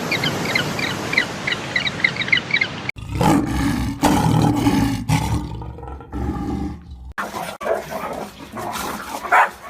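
A run of cut-together animal calls: rapid bird chirps over a steady rushing noise for about three seconds, then a few seconds of loud, low animal calls, then a shorter stretch of other, higher animal calls.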